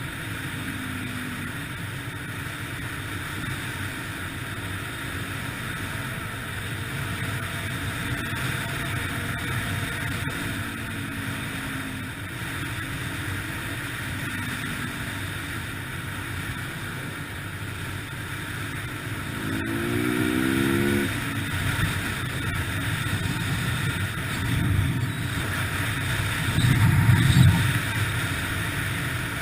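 Yamaha TT-R125LE dirt bike's single-cylinder four-stroke engine running under way, mixed with wind noise. The revs climb about two-thirds of the way through, and there are louder swells near the end.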